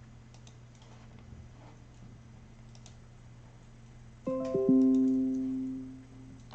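A single chord strummed on a plucked string instrument about four seconds in, ringing out and dying away over about two seconds. Before it there is only a steady low hum with a few faint ticks.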